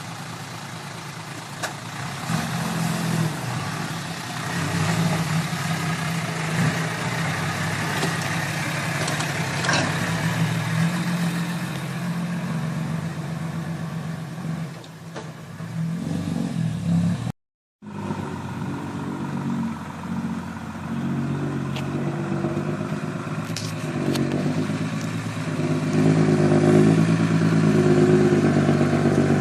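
Dump truck's diesel engine running and revving under load, growing louder near the end, with a brief cut-out just past halfway.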